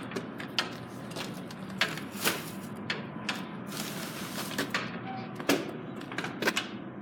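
Scattered light clicks and knocks, about a dozen at irregular intervals, over a faint steady tone and background hiss.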